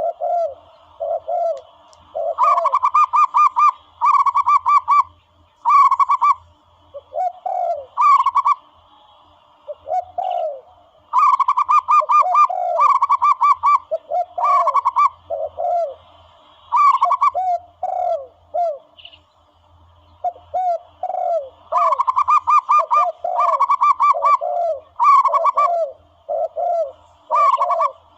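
Dove calls used as a hunting lure: repeated short, low coos alternating with louder, rapid trilled phrases, in bouts separated by brief pauses.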